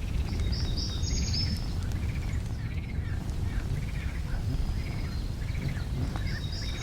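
Outdoor bird calls: a string of repeated arching notes, one or two a second, with quick higher chirps about a second in and again near the end, over a steady low rumble.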